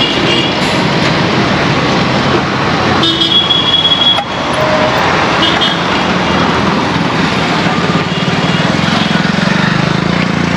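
Busy market traffic: vehicle engines running steadily, with short high horn toots near the start, a longer one held for nearly a second about three seconds in, and another short toot a couple of seconds later.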